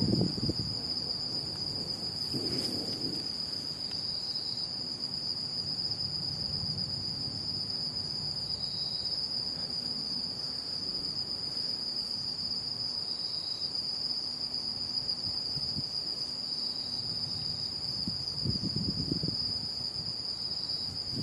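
Night insects chirring in a steady, high-pitched chorus, with brief low rumbles about two and a half seconds in and again near the end.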